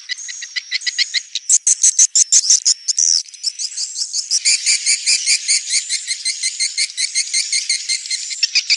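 Swiftlet twittering calls: rapid, repeated chirps several a second, several birds overlapping and growing denser about a second and a half in. This is a swiftlet lure sound of the kind played to draw swiftlets into nesting houses.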